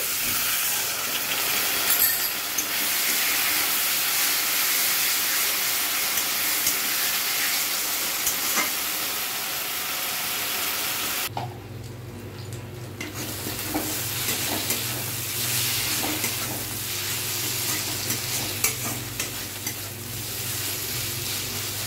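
Spice masala frying and sizzling in an aluminium kadai, with a metal spatula stirring and scraping against the pan and small clicks. Water is poured in at the start. This is the bhuna stage, the masala being fried down. The sizzle drops away briefly about halfway, then comes back over a low hum.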